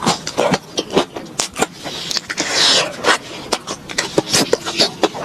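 Close-miked chewing of crispy fried enoki mushroom skewers: a rapid run of crunches and wet mouth clicks, with one longer hiss about two and a half seconds in.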